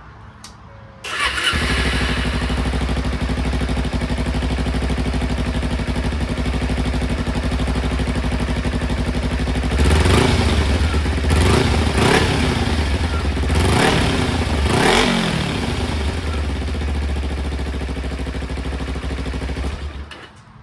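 Kawasaki Ninja 250R parallel-twin engine, breathing through an aftermarket Yoshimura slip-on muffler, starts about a second in and idles. It is revved several times in quick succession partway through, then settles back to idle and is shut off near the end.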